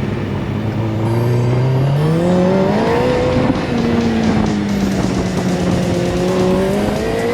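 Go-kart's Suzuki GSX-R600 motorbike engine running under way. It revs up through the gears about two seconds in, holds a steady pitch, then rises again near the end.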